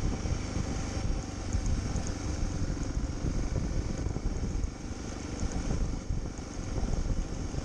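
Motorcycle engine running while riding, with wind buffeting the microphone in an uneven low rumble.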